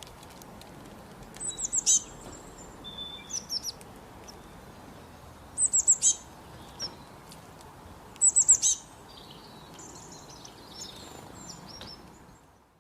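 Small birds chirping: three loud runs of four or five quick, high, falling notes, with softer twittering between them.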